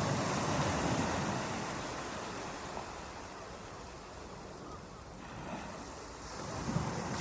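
Ocean waves washing in: the rush of one wave fades away over a few seconds, and the next swells in near the end.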